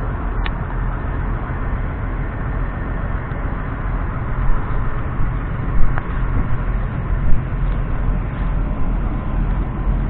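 Claas Axion 800 tractor's 6.7-litre six-cylinder diesel engine running steadily, with a few brief louder knocks around the middle.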